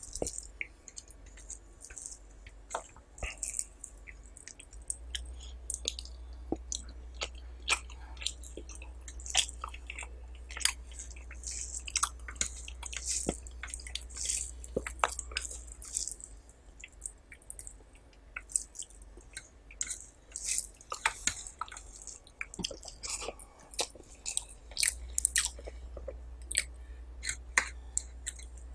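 Close-miked chewing of curry and rice: an irregular run of wet smacks and sharp mouth clicks, several a second, over a faint low hum.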